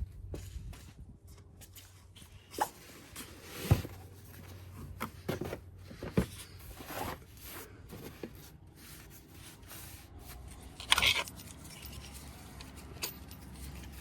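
Hand tools being handled during an oil change: scattered metallic clicks, knocks and scrapes, the sharpest about four seconds in and a short clatter near eleven seconds.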